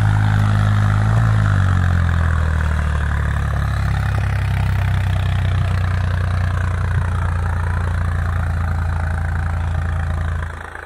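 Swaraj 963 FE tractor's diesel engine running hard, its pitch dropping slightly about a second and a half in and then holding steady. Near the end the note falls away sharply to a much quieter, lower running sound.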